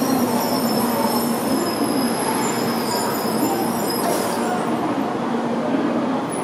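N700A Tokaido Shinkansen train rolling slowly past, with a steady rumble of wheels and running gear and a thin high whine. A brief high hiss comes about four seconds in as the nose of the end car goes by.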